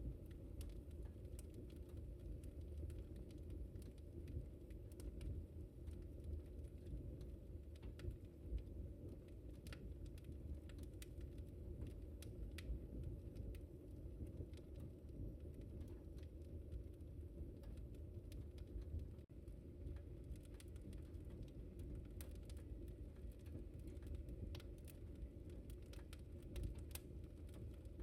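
Wood fire crackling in a fireplace: irregular sharp pops and snaps over a low, steady rumble of the flames, the pops coming thicker in the last third.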